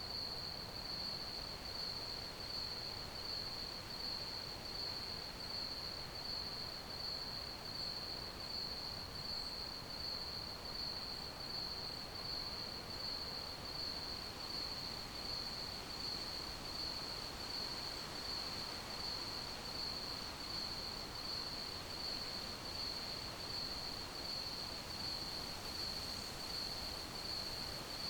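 Crickets chirping: one steady high-pitched trill pulsing about twice a second, over a soft even background hiss.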